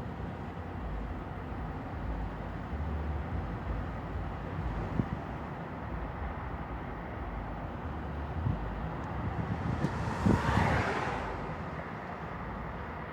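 Street traffic noise: a steady low rumble with a few brief knocks, and a vehicle passing close by about ten seconds in, its noise swelling and then fading.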